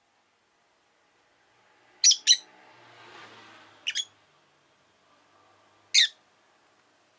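Rosy-faced lovebirds giving short, sharp chirps: a quick pair about two seconds in, then single calls about two seconds apart.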